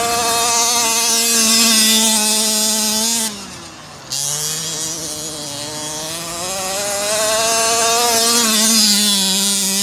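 The 28cc two-stroke petrol engine of a Himoto 1/5 scale RC monster truck running at high revs; about three seconds in the throttle is cut and the pitch and level drop briefly, then the engine picks up again and the pitch climbs steadily back to full revs.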